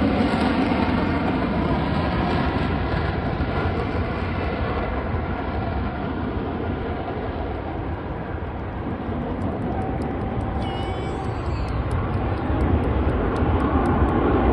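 F-35B Lightning II's single Pratt & Whitney F135 jet engine running loud and steady, a continuous roar with a whine through it. It eases off a little midway and builds again near the end.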